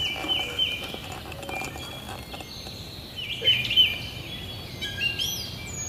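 Songbirds singing, with runs of short repeated chirping notes, loudest in the middle. A few higher calls come near the end.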